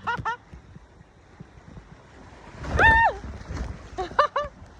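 A person's voice: a few short calls, then a loud, high shout about three seconds in that holds and then drops in pitch, with wind rumbling on the microphone.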